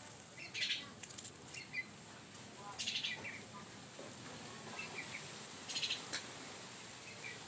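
Faint, short high-pitched chirps and clicks from a small pet animal, coming in small clusters every second or two.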